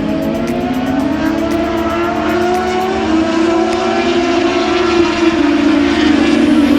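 Several racing motorcycle engines running at once on the circuit. Their overlapping tones rise and fall as the riders accelerate and change gear.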